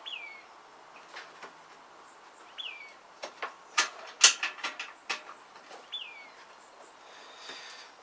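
Sharp clicks and knocks of parts being handled while a bolt is worked into the scooter's top shock-absorber mount. The loudest run of them comes in the middle. A bird gives a short chirp that falls in pitch three times: at the start, a couple of seconds later, and again near six seconds.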